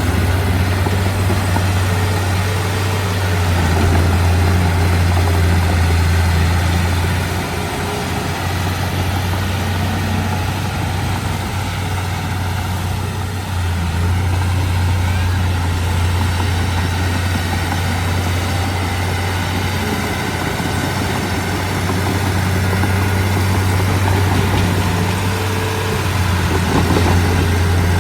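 Komatsu D31P bulldozer's diesel engine running steadily with a strong low hum. The hum eases for a few seconds around the middle, then comes back to full strength.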